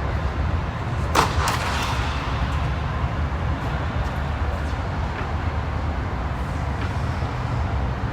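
Tennis ball struck by racquets during a doubles rally: a sharp hit about a second in, a second quick pop just after it, and fainter hits later, over a steady low rumble.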